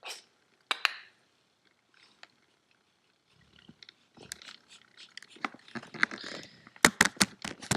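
A sleeping dog giving two short snorting breaths a little under a second apart. A few seconds later comes a run of irregular clicks and rustling that grows louder, with the sharpest clicks near the end.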